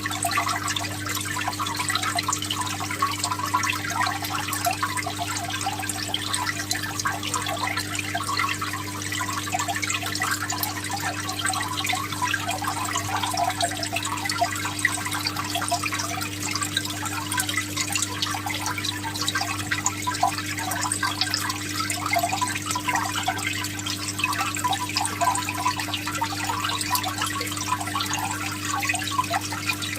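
Continuous trickling, splashing water, a busy even patter with no pauses, over a steady low hum.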